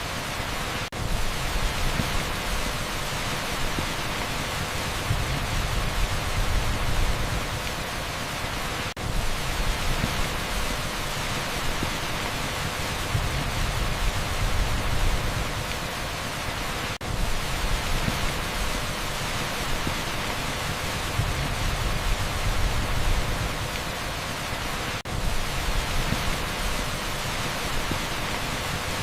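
Heavy rain on a street: a dense, even rushing hiss with a low rumble underneath. It is broken by a momentary dip about every eight seconds.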